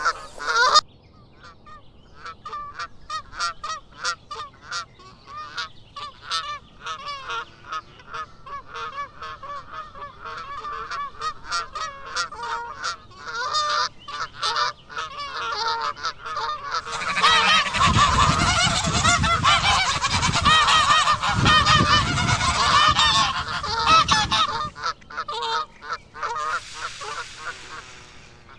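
Geese honking, many short calls overlapping. About two-thirds of the way in the honking grows louder and denser, with a low rumble underneath, then thins out near the end.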